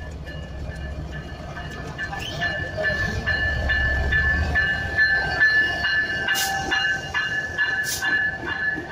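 Diesel-hauled passenger train passing close by. The locomotive's low engine rumble gives way to the coaches' wheels clicking over rail joints about twice a second, under a steady high whine. Two loud clanks come in the second half, and the sound grows louder throughout.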